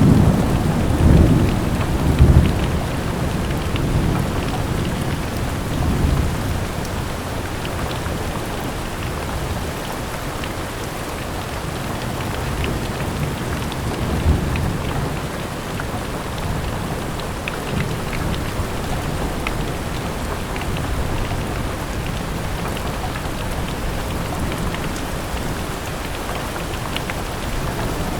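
Steady rain falling, with low rumbles of thunder that swell and fade over the first six seconds or so.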